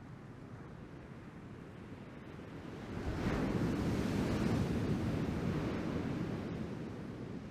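Ocean surf from a typhoon swell: a wave breaks and washes loudly about three seconds in over steady surf, with wind buffeting the microphone.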